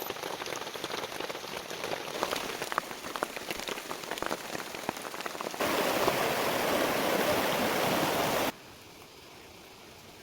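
Heavy rain, at first with many separate drops striking a surface, then a denser, louder steady downpour from about five and a half seconds in, which cuts suddenly to a quieter hiss near the end.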